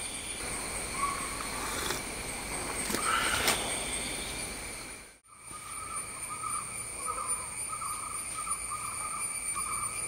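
Insect chorus at dusk: steady, high, overlapping trills. About three seconds in there are a couple of brief knocks. After a sudden break halfway through, a lower, pulsing chirring joins in.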